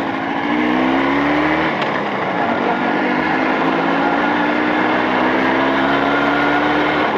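Motorcycle engine pulling under way while being run in, rising in pitch, easing off about two seconds in and then climbing again more slowly, as on a gear change, with wind and road noise.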